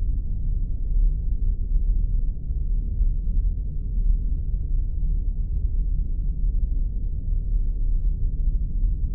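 Spaceship ambience sound effect: a steady, deep rumbling drone with almost nothing above a low hum.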